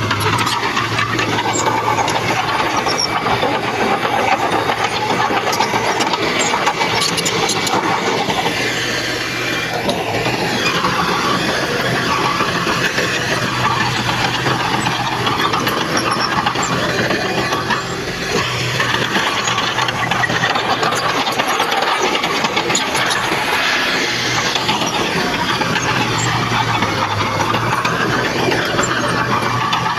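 Heavy earthmoving machinery working, its diesel engine running steadily with a low hum, together with high squeals that rise and fall.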